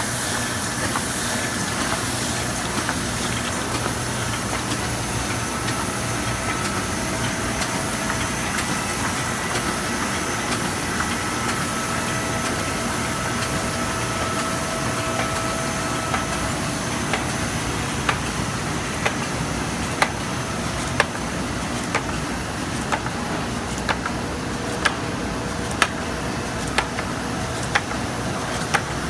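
Kompac spot and flood coater running with a steady machine hum and hiss. Over the second half, sharp clicks come roughly once a second.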